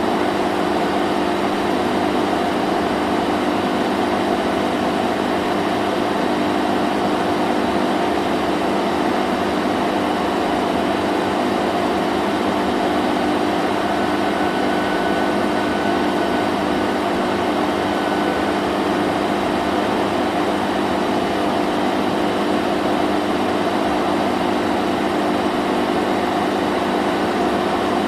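Vacuum cleaner running steadily: a constant motor hum under an even rush of air, with no change in pitch or level.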